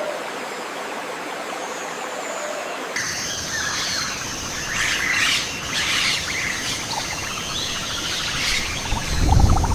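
Wild birds chirping and calling over a steady, high-pitched forest background. The background changes abruptly about three seconds in, after which the calls come in clusters. Near the end a low rumble joins them.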